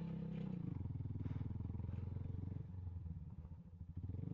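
Motorcycle engine running while riding over a rough road; the engine note eases off briefly about three seconds in, then picks up again.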